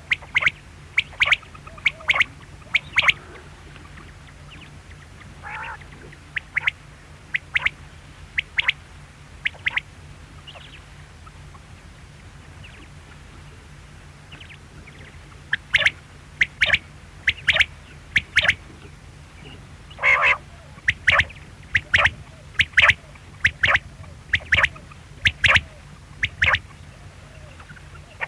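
Quail calling: short, sharp, high notes repeated in quick phrases of a few notes, with pauses of several seconds between the runs. A steady low hum runs underneath.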